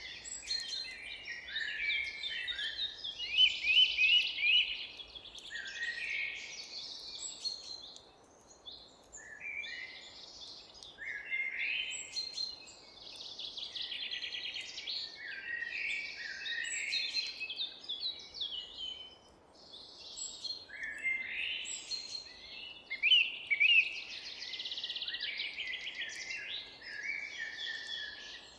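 Several songbirds singing together in woodland: overlapping chirps, trills and quick descending whistles in phrases a few seconds long, with short lulls between, over a faint steady background hiss.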